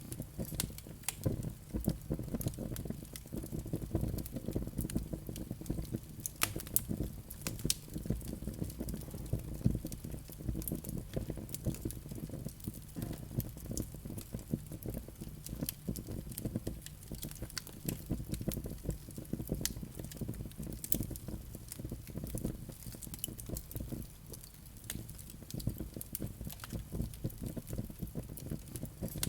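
Wood fire in a fireplace crackling: a dense, irregular run of small pops and snaps over a steady low rumble of flames.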